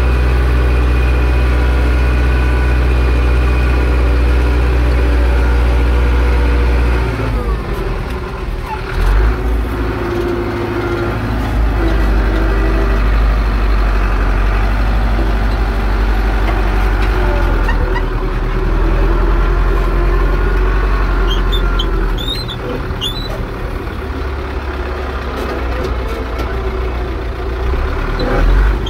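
Zetor 6245 diesel tractor engine running steadily under plowing load; its note shifts and becomes rougher about seven seconds in.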